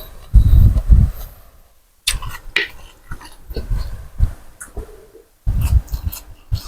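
Close-up eating sounds: slurping and chewing a bowl of pork noodle soup, with two louder slurping bursts and quieter wet mouth clicks between them.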